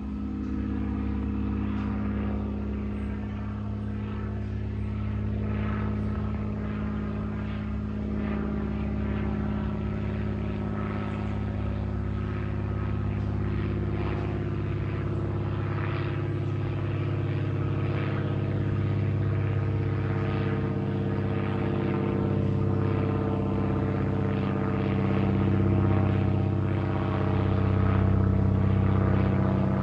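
Cessna 305A (Bird Dog) banner-tow plane flying over, its six-cylinder piston engine and propeller droning steadily and growing slightly louder toward the end.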